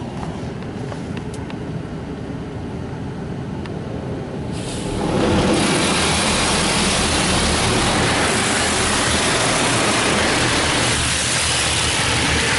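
Automatic car wash heard from inside the car: a low machinery rumble, then about four and a half seconds in the rinse spray starts hitting the car's roof and windows as a loud, steady hiss.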